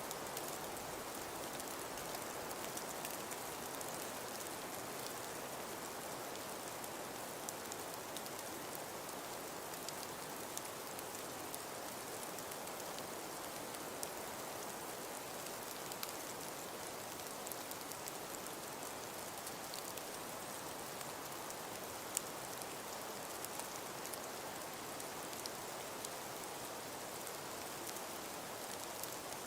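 Steady snowstorm ambience: an even hiss of wind with a scatter of small ticks from falling snow.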